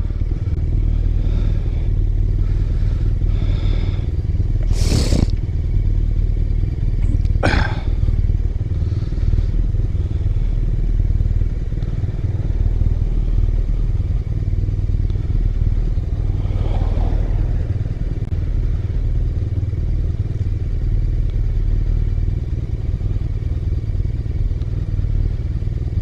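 BMW R1200R boxer-twin motorcycle running steadily, heard through a helmet-mounted mic with a constant low rumble and wind noise, and two brief sharp whooshes about five and seven and a half seconds in.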